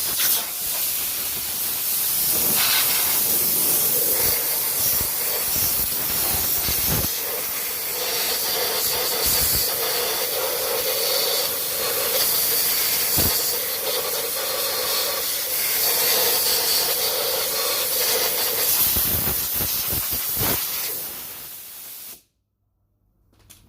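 Compressed-air blow gun hissing steadily as air is blown into the spark plug wells of a 2005 Ford Focus 1.6 petrol engine to clear out water that has collected around the plugs and caused misfiring. A faint whistle rides on the airflow through the middle, and the hiss stops suddenly near the end.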